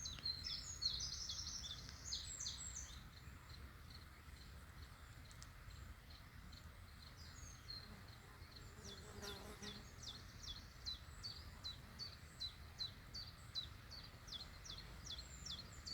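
Small birds calling: a quick jumble of high chirps at the start, then from about halfway a steady run of short high chirps repeated about three times a second, over a steady low hiss of outdoor background noise.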